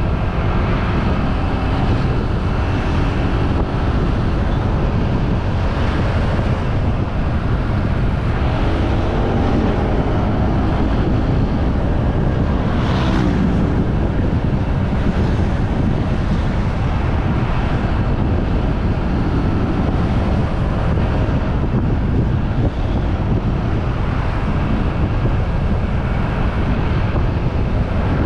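Wind buffeting the microphone on a moving motorbike, a steady low rush, with the bike's engine and road noise underneath. About halfway through there is a brief louder swell in the upper range.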